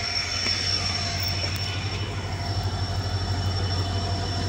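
Passenger train pulling out of a station, heard from an open coach doorway: a steady low rumble of the moving coaches, with a thin, steady high-pitched whine throughout.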